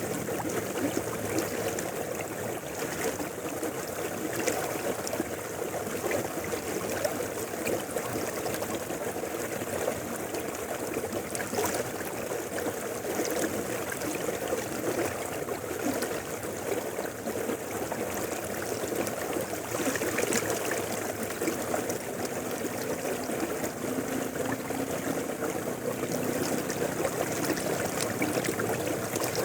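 Mountain river flowing steadily, an even rush of running water.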